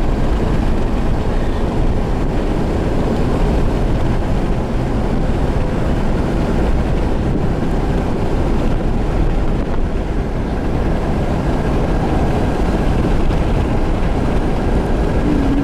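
Steady road noise of a car driving on a snow-covered, barely plowed road: tyres and engine running evenly, heard from inside the cabin.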